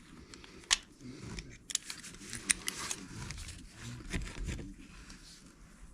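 Small metal tools being handled: a handful of sharp clicks and light scraping and rattling as screwdriver bits are picked from a bit set and tried on a screw.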